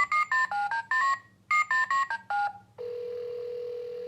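Electronic Thomas the Tank Engine toy phone playing two quick runs of two-tone keypad dialing beeps, about six in each run. A steady single tone follows from about three seconds in.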